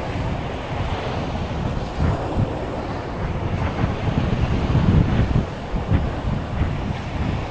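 Wind buffeting the microphone in uneven gusts over the steady wash of surf on the beach.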